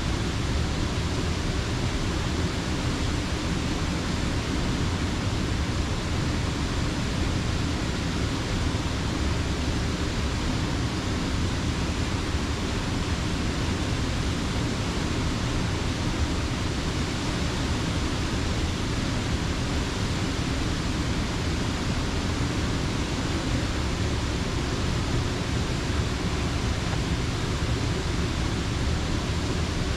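Creek water rushing steadily over a mill dam, an even unbroken rush with no changes.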